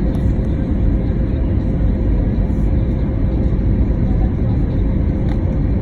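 Cabin noise inside an Airbus A320neo: a steady low rumble of its CFM LEAP-1A engines and airflow, with a thin steady hum running through it.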